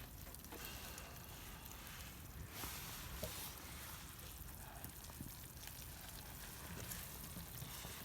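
Meat sizzling faintly on a grill, an even hiss over a steady low rumble, with a few small ticks.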